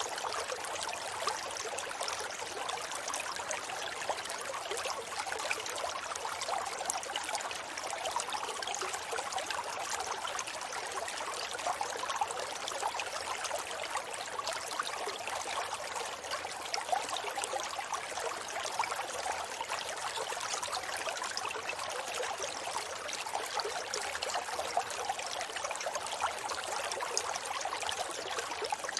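A forest river or stream flowing steadily over rocks, a continuous splashing and trickling of water.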